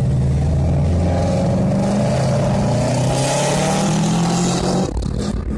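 A car engine running steadily while driving, with a hiss building about three seconds in; the engine note breaks off suddenly about five seconds in.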